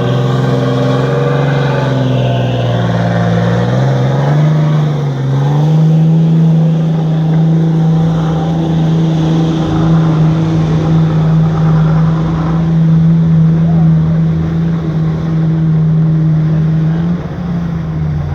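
Pickup truck engine running at high revs under heavy load in a truck pull. The pitch climbs over the first few seconds, holds steady for most of the run, then falls away near the end as the pull ends.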